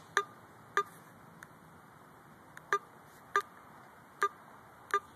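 A series of short, sharp clicks at irregular intervals, roughly one every half second to a second.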